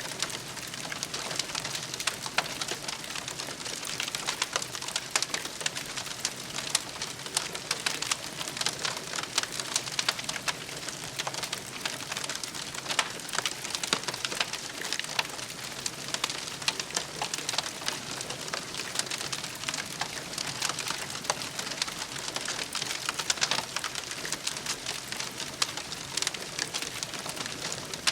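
Wood campfire burning, with dense crackling and frequent sharp pops over a steady hiss.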